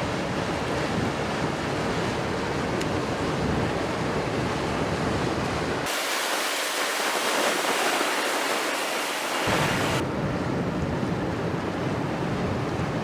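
Steady rushing noise of wind on the microphone over the river, with no distinct engine or voice. About six seconds in the low rumble drops out abruptly and leaves a thinner hiss for a few seconds, then comes back.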